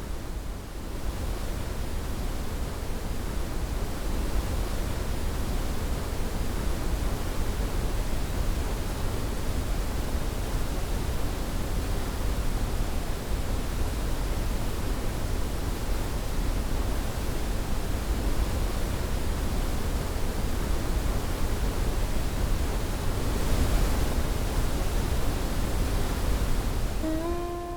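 Waterfall, a steady rush of falling water with a deep rumble under a broad hiss, swelling slightly about two-thirds of the way through.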